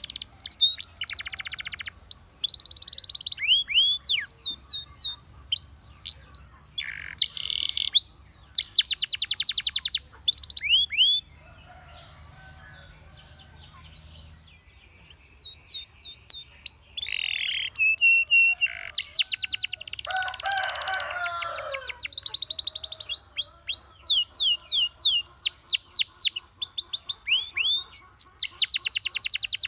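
Canary singing: rapid rolling trills and runs of quick down-slurred whistled notes, breaking off for a few seconds near the middle before starting again.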